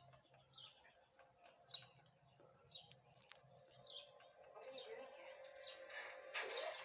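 Faint bird chirps: short, falling notes repeating about once a second.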